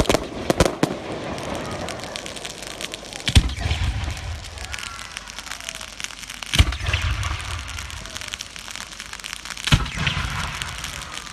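Fireworks going off: a quick cluster of sharp bangs at the start, then single loud bursts roughly every three seconds, each followed by crackling and a low rumble.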